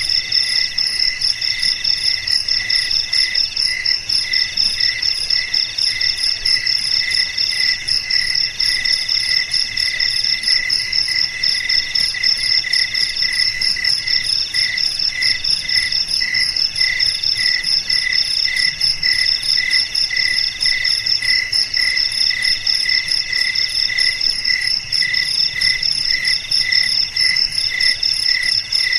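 A chorus of crickets chirping without a break, several singers at different pitches overlapping: one with a steady pulsing beat about twice a second, another in long trills broken by short gaps, over a continuous high shrill.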